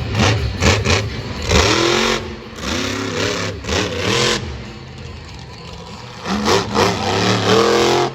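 Monster truck engine revving in repeated bursts, its pitch sweeping up and down with each blip of the throttle.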